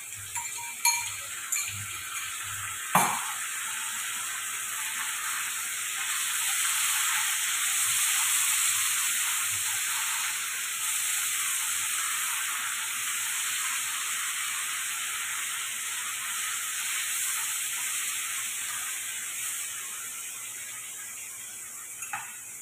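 Marinated chicken pieces sizzling as they fry in a wok with onion and capsicum, stirred with a wooden spatula. A few sharp knocks in the first three seconds, the loudest about three seconds in.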